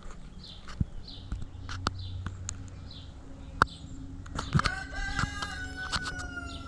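A rooster crowing once, a long call beginning about four and a half seconds in and falling slightly in pitch, over repeated short chirps from small birds and a few sharp clicks and knocks.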